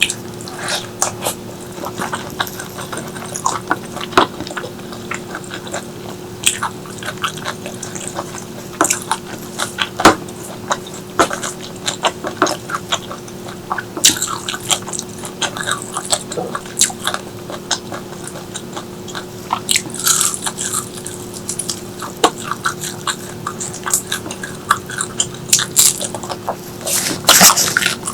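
Close-miked eating: a person chewing and biting food, with irregular crunches and wet mouth clicks, thickest near the end. A steady low hum runs underneath.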